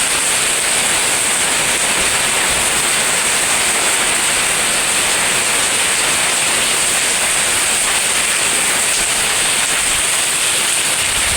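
Loud, steady hiss of a storm's heavy rain and strong wind, with no let-up.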